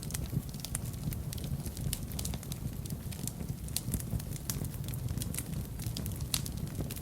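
Fire in a fireplace crackling: frequent sharp pops and snaps, several a second, over a steady low rumble of flames.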